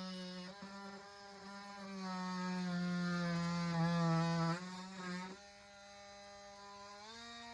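Electric power tool cutting into a wooden soffit board, its motor whining with a wavering pitch under load. About five seconds in the whine drops in level and runs on lighter, rising slightly in pitch near the end.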